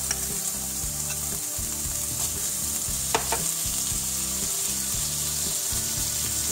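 Diced onion sizzling in a hot frying pan as butter is spooned in to melt, a steady hiss. A few sharp clicks from the spoon and butter against the pan, the loudest about three seconds in.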